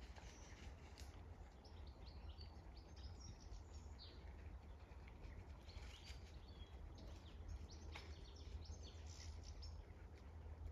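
Faint birdsong: many short chirps and trills from small birds, over a low steady rumble.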